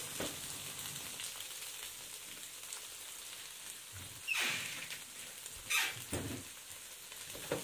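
Scrambled eggs frying in oil in a metal wok on a gas burner, a steady sizzle. A brief louder noise comes about four seconds in and again about six seconds in.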